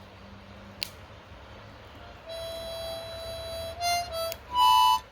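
Harmonica played: a long held note starting about two seconds in, then a few short notes and a brief loud chord near the end. A single sharp pop about a second in.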